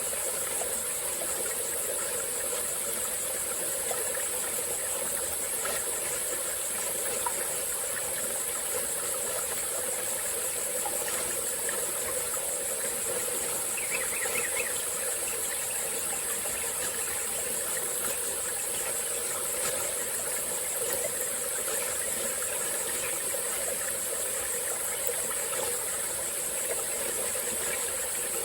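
Small forest stream flowing and trickling steadily over rocks, with a constant high-pitched chorus of tropical forest insects above it.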